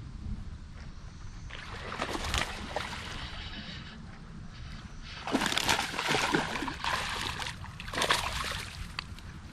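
Water splashing in several irregular bursts, the loudest a little past the middle: a hooked bass thrashing at the surface of the pond.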